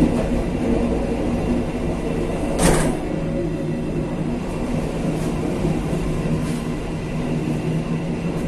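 KA Kaligung passenger train running along the track: a steady rumble of wheels on rail with a low hum. A short, sharp burst of noise stands out about two and a half seconds in, with a few fainter ticks later.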